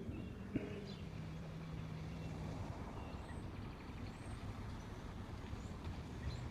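A vehicle going by, its engine a steady low hum, with a few faint bird chirps.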